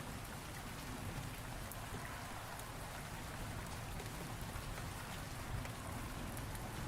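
Steady rain falling, with scattered drop ticks over a low, uneven rumble underneath.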